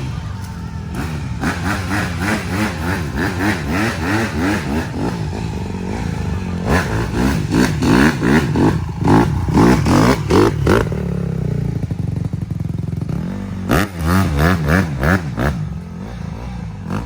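Dirt bike engine revving up and down over and over in quick surges of rising and falling pitch. The revs are loudest in a run through the middle and again shortly before the end.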